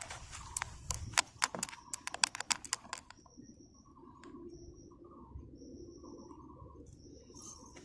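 Rapid, irregular sharp clicks and taps for about the first three seconds, then a bird calling in short repeated notes.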